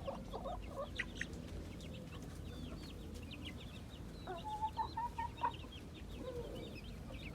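Chickens clucking, with a steady scatter of short, high peeps throughout and a short run of clucks a little past the middle.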